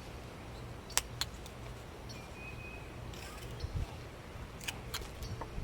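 Whittling knife cutting a small wooden block: short slicing shaves and a few sharp clicks, one pair about a second in and more near the end.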